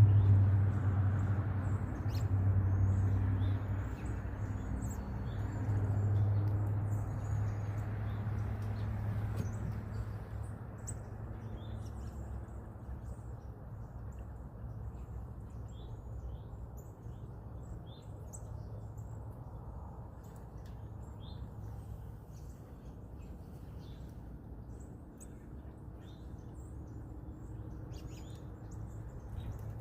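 Small birds chirping repeatedly, short high calls throughout, over a low steady hum that is loudest at first and fades away over the first ten seconds.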